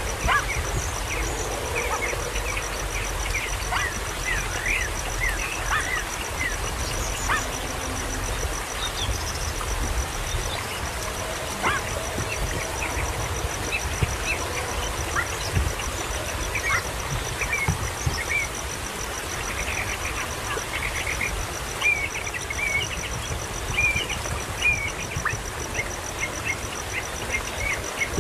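Short bird chirps repeated irregularly throughout, over a steady high-pitched pulsing trill and a low rumble.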